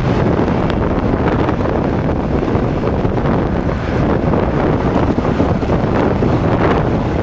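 A passenger train running over the tracks: a steady rumble with wind buffeting the microphone and a few faint clicks.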